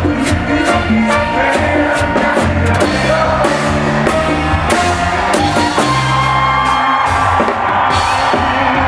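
Live band music with a steady drum beat and bass, and a voice singing over it.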